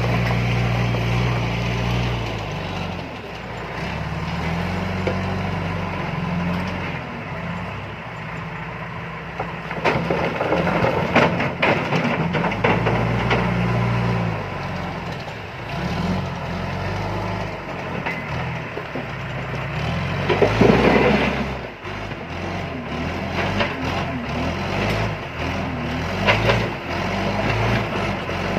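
John Deere 310E backhoe loader's diesel engine running and revving up and down as it works a load of stone, with rough clattering crashes of rock from about ten seconds in and a louder one about two-thirds of the way through.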